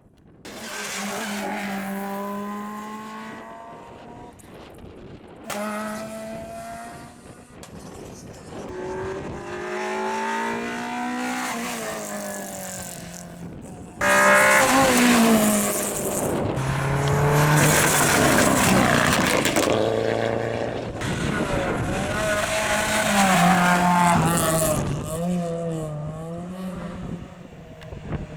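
Rally car engines at full throttle, the pitch climbing and dropping with each gear change as the cars pass. It is several passes cut together, the loudest starting abruptly about 14 seconds in.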